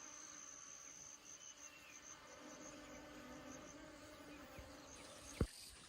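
Faint high-pitched insect chirring, steady at first and then in quick even pulses, over a low steady hum. A single sharp knock comes near the end.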